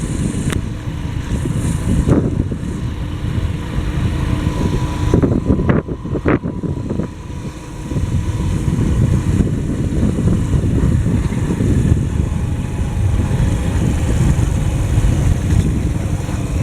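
Motorcycle engine running while riding, with wind rumbling on the microphone; a few sharp knocks about six seconds in.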